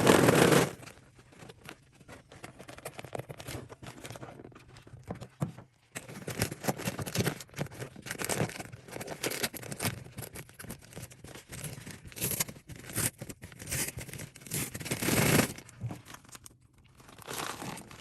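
Paper microwave-popcorn bag crinkling and tearing as it is handled and opened, in irregular rustling spells, with a loud rustle at the very start.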